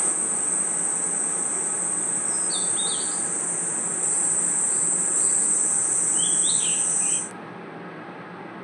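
Night-time insect chorus: a steady high cricket trill that cuts off suddenly about seven seconds in, with a few short chirps in two small groups partway through, over a low even background hiss.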